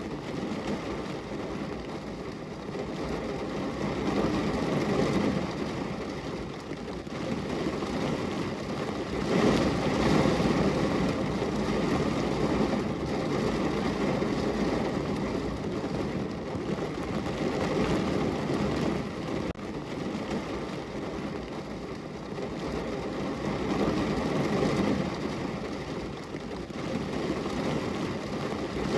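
Rain falling on a window: a steady rushing noise that swells and eases several times.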